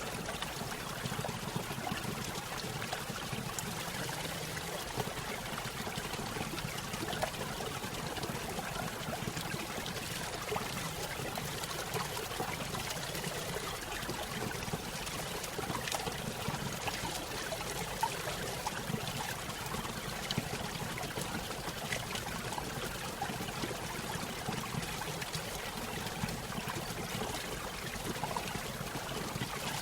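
Small stream spilling over a little waterfall: a steady splashing and trickling of water with fine bubbling detail throughout.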